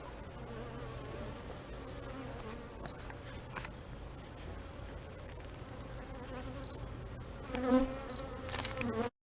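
Honey bees buzzing around an open hive, a wavering hum that swells louder about seven and a half seconds in, then cuts off suddenly just before the end.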